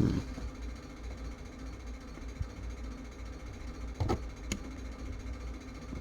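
Two light clicks close together about four seconds in, with a soft knock at the start, from hand tools touching the clock's circuit board during desoldering work, over a steady low hum.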